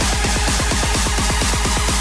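Electro house / Melbourne bounce track in a build-up: a fast kick-drum roll at about ten hits a second under a high hissing riser.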